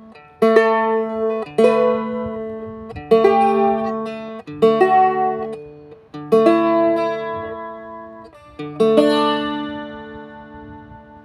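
Plucked string instrument, guitar-like, playing slow strummed chords, about six of them a second or two apart, each left to ring; the last fades out near the end.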